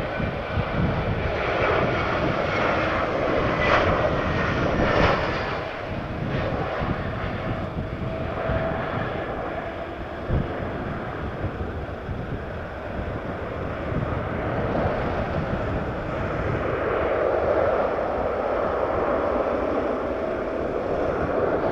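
Jet airliner's engines roaring as it passes the airport, with a faint whine falling in pitch over the first few seconds.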